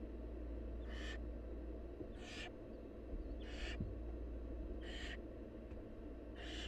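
Barn owl nestlings giving their hissing, snore-like begging calls for food: five short rasping hisses at an even pace, about one every second and a bit, over a steady low hum.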